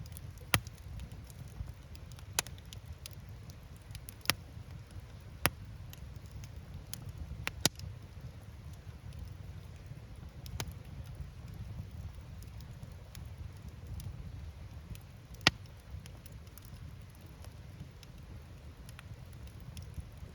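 Firewood burning in an open campfire, crackling with sharp pops at irregular intervals, about six loud ones among many faint ticks, over a low steady rumble.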